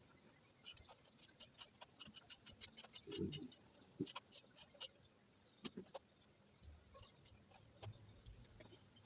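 A quick run of sharp clicks and taps from hand tools and parts during disassembly of a Honda Fan 125 motorcycle, about four or five a second through the first half and then more scattered, with a couple of duller knocks.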